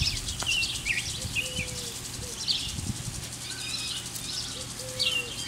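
Birds chirping and twittering outdoors, with a low three-note call (short, long, short) repeating about every three seconds.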